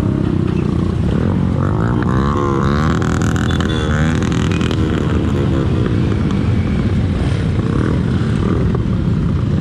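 Motorcycle engines running on the move, under a heavy constant wind rumble on the microphone. From about two to four seconds in, engine pitch rises and falls as the bikes rev.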